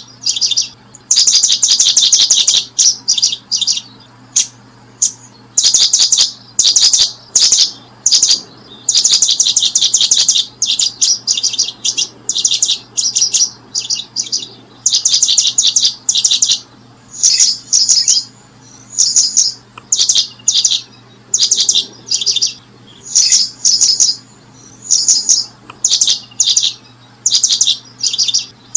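Small bird chirping: short bursts of rapidly repeated high notes, one after another with brief gaps, over a faint steady low hum.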